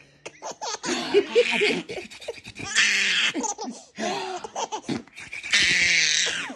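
Hearty laughter in repeated breathy bursts, with a longer burst near the end.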